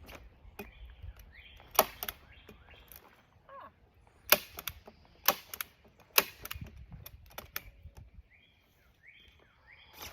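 A hand staple gun firing four sharp snaps into plastic sheeting on a wooden frame, the last three about a second apart. A bird calls in the background with short, falling notes.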